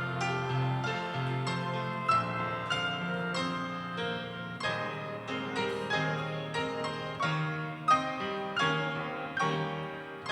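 Piano playing an instrumental piece: a continuous run of notes and chords over a low bass line, without singing.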